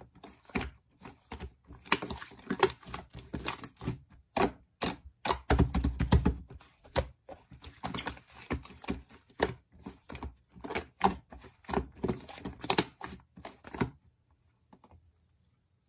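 Rapid, irregular clicking and tapping, a few strokes a second, with a heavier low thump about six seconds in; it stops about two seconds before the end.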